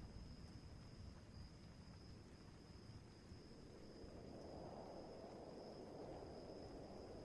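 Faint night-storm ambience: the tail of a thunder rumble dies away at the start, a steady high cricket trill runs throughout, and a soft low rush swells about four seconds in.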